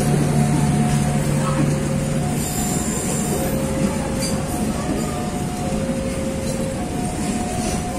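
Passenger train coaches running past at a level crossing, with steady wheel-on-rail noise. Over it, the crossing's warning alarm sounds a repeating two-note signal, a lower and a higher tone taking turns about once a second.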